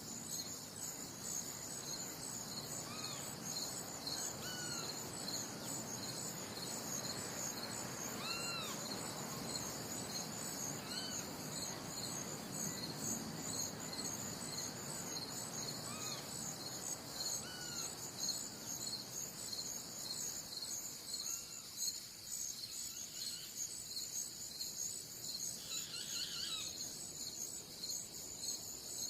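A chorus of insects trilling with a steady, fast, high-pitched pulsing, with short bird chirps now and then over a soft rushing background that fades about two-thirds of the way through.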